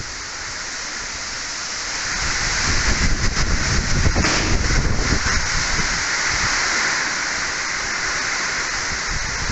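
Heavy tropical-cyclone rain pouring steadily, with a low rumble that swells about two seconds in and eases after five.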